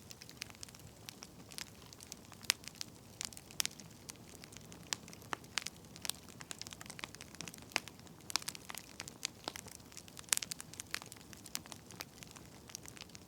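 Wood fire crackling: irregular sharp pops and snaps, a few a second and varying in strength, over a faint steady hiss.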